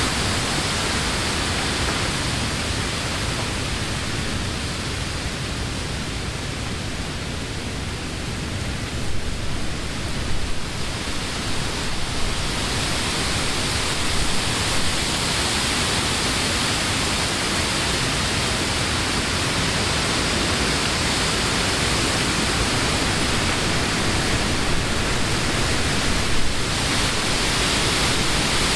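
Summer wind blowing through leafy trees, a steady rush of rustling leaves that eases slightly a few seconds in and builds again about halfway, with a few brief gusts.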